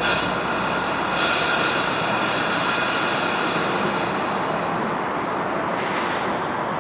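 Passenger train rolling through the station with a steady rumble and a high squeal of several tones at once, strongest from about a second in and fading near the end.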